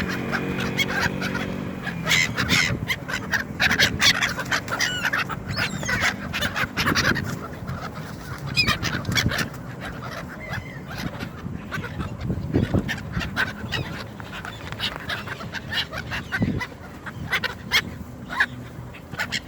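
A flock of gulls calling over one another as they are fed, many short harsh calls overlapping, busiest in the first half.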